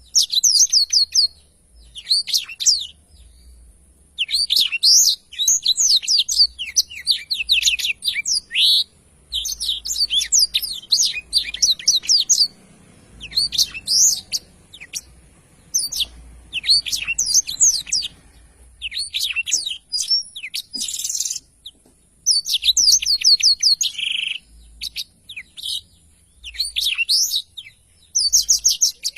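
Blackthroat (black-throated canary) singing in full song: phrase after phrase of fast twittering trills and warbles, each one to three seconds long, with short pauses between.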